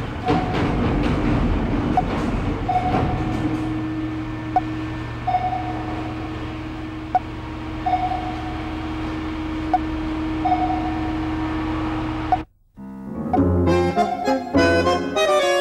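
Steady mechanical rumble with a held hum and a short click about every two and a half seconds. It cuts off suddenly near the end and gives way to music with sustained reedy notes.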